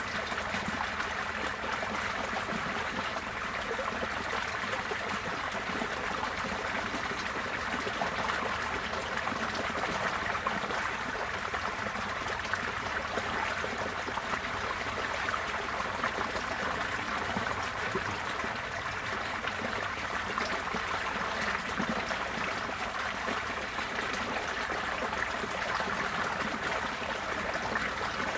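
Floodwater running off as the flood recedes: a steady rushing and trickling of flowing water.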